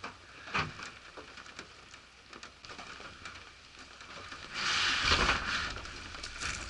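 Rain pattering in scattered drops, with a loud rustling rush for about a second, some five seconds in.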